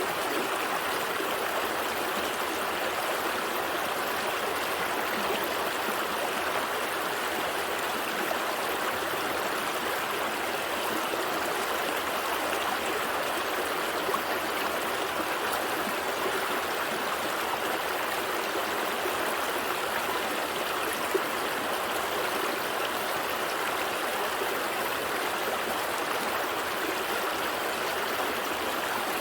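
A gentle stream flowing and burbling steadily over stones, an even rushing trickle with no letup.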